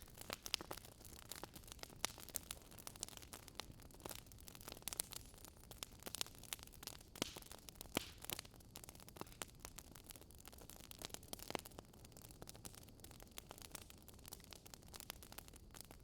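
Wood fire crackling: faint, irregular pops and snaps over a low hiss.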